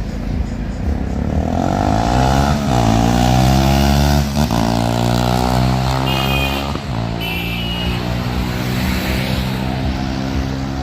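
Bajaj Dominar 400's single-cylinder engine and exhaust in a fly-by: the note swells to its loudest a few seconds in, its pitch drops as the bike passes, then carries on steadily.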